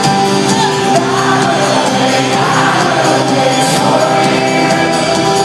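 Live band music from a concert recorded in the crowd: loud, steady instrumental playing with singing or crowd voices mixed in.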